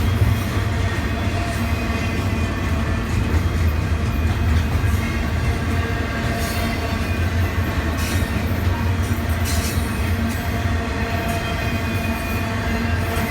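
Intermodal freight train rolling past, its wheels giving a steady low rumble with a thin whine of wheel squeal over it. A few sharp clicks come from the rail joints, about six and a half, eight and nine and a half seconds in.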